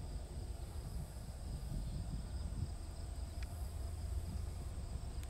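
Low rumble of an approaching freight stack train, slowly growing louder, under a steady high chirring of insects.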